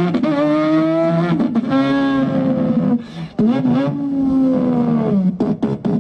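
A boy imitating a racing engine with his voice: three long held engine notes, each lasting a second or two and dropping in pitch at the end.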